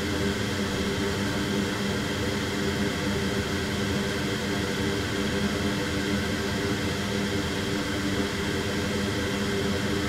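Steady whir of a running fan on a soldering bench, with an even low hum under it.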